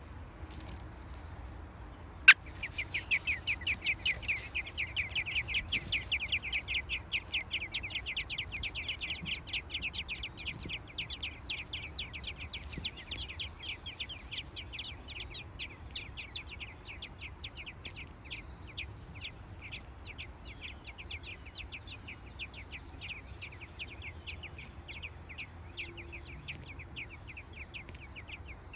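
A sharp click about two seconds in, then nestlings begging for food: a fast, continuous run of high chirps, several a second, loudest at first and slowly fading.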